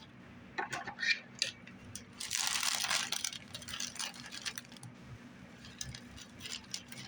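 Crinkling and rustling of Easter basket grass being handled and pulled apart, with scattered small clicks and taps; a denser rustle comes about two and a half seconds in and lasts about a second.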